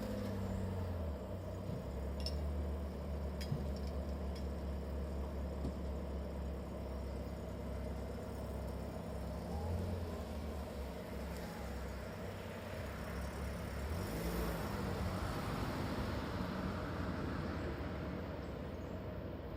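A motor vehicle's engine running steadily with a low hum, with a swell of hiss about two-thirds of the way through.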